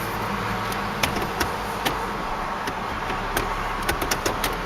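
2009 Scion xB's 2.4-litre four-cylinder idling quietly and steadily. Irregular sharp clicks sound over it, several in quick succession near the end.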